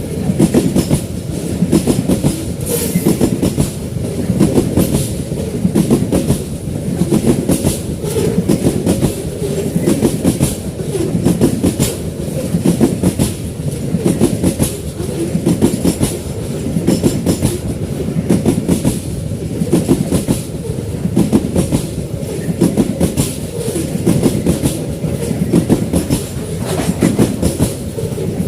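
Wagons of a Babaranjang coal freight train rolling past, the wheels clacking over the rail joints in a steady repeating rhythm.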